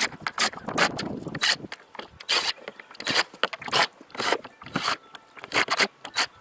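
Hand ratchet clicking in short, irregular back-and-forth strokes, a few clicks a second, as bolts are loosened.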